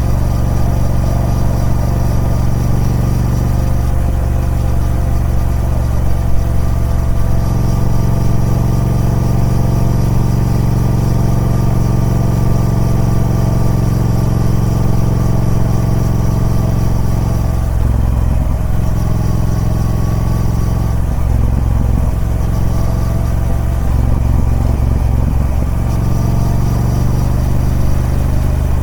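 Triumph Speed Twin 1200's parallel-twin engine running steadily through its stock exhaust, with a few brief changes in the note between about 18 and 26 seconds in.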